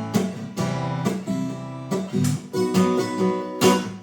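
Acoustic guitar strummed in chords, a string of strokes playing an instrumental passage of a song, with no singing.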